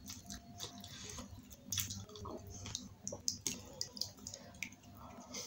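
Close-up wet chewing and scattered sharp mouth clicks of someone eating pani puri.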